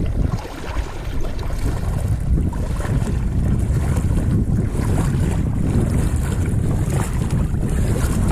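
Wind buffeting the microphone of a chest-mounted action camera: a loud, uneven low rumble, with lighter water noise above it.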